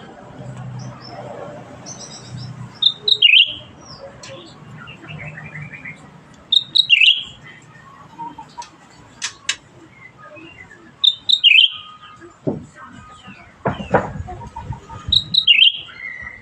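A cucak ranting bird singing: a loud, short phrase sliding down in pitch, repeated four times about every four seconds, with softer chirps and twitters in between.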